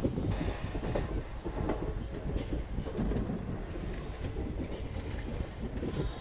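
Passenger train's wheels rolling over the rails, heard from on board as the train pulls out through the station yard. The sound is a steady rumble, with a faint high wheel squeal near the start and again about four seconds in.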